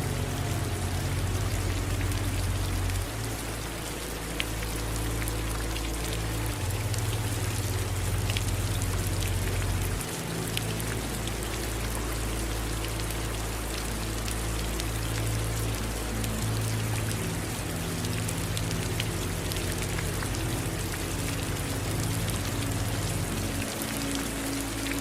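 Steady rain falling, with scattered drops striking a surface and running water beneath. Under it is a low rumble that shifts in level every few seconds.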